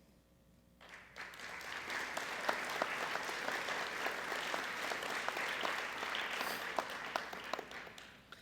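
Audience applauding in a gym, starting about a second in and fading out near the end.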